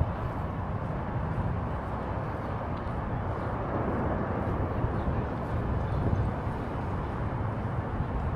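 Steady city street ambience: a low, continuous traffic rumble with no distinct single event.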